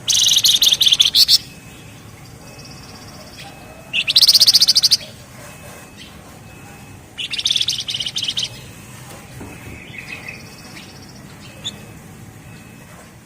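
Javan fulvetta (flamboyan, wergan jawa) singing: three loud, rapid, dense rattling trills of about a second each, the kind called 'ngebren', with faint thin short notes between them.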